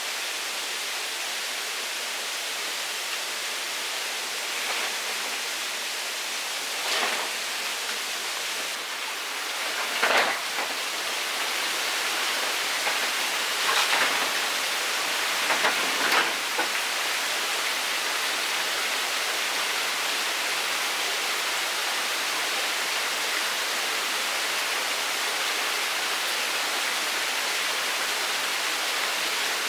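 Steady rush of running water, with a few short, louder noises about a quarter to halfway through.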